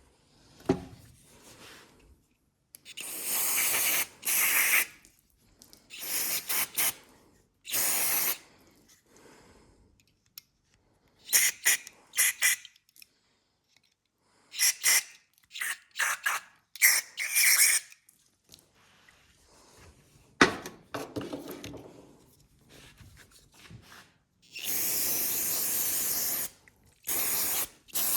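Aerosol brake cleaner sprayed in repeated short bursts onto lawnmower carburetor parts to clean them, each a hiss of half a second to about two seconds. Small clicks and handling noises fall between the bursts.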